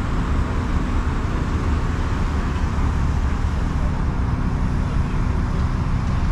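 Supercharged Shelby GT350's 5.2-litre flat-plane-crank V8 running at low speed, a steady low rumble with no revving.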